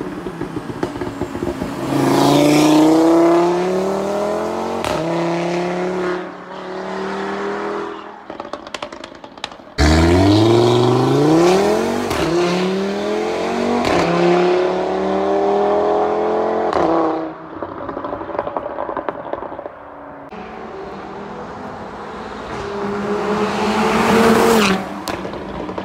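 Audi RS3's turbocharged five-cylinder engine, stage 1 tuned and running without a catalytic converter, pulling hard with its pitch climbing in steps through quick upshifts, twice. After a quieter stretch it winds up again as the car comes close near the end, and then cuts off.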